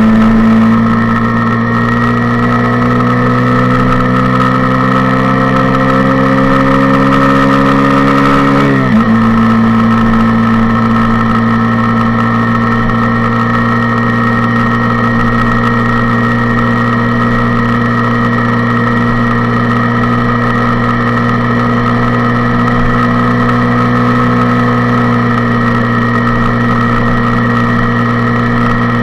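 Suzuki Intruder 125's single-cylinder four-stroke engine running under way, heard from a handlebar-mounted camera. Its pitch climbs slowly as the bike gathers speed, drops sharply about nine seconds in, then holds steady at cruising speed.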